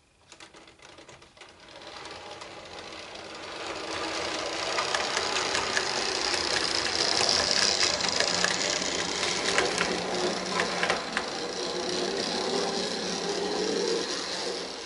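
Model diesel multiple unit running along the layout's track: a small electric motor whirring with a quick rattle of clicks from the wheels on the rails, building up over the first few seconds, holding steady, then easing off near the end.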